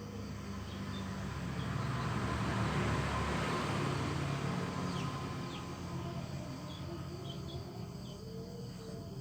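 A vehicle passing by, its noise swelling to a peak a few seconds in and then fading away.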